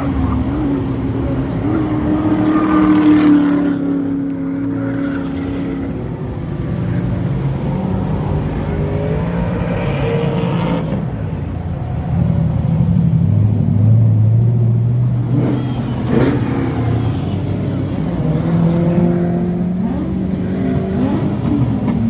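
Several car engines running and revving at once, their pitch rising, holding and falling.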